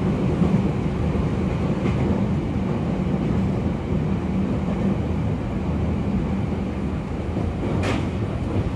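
JR East E231-0 series commuter train running at steady speed, heard from inside the car: a continuous low rumble of the wheels and running gear on the track. A brief sharp noise cuts through about eight seconds in.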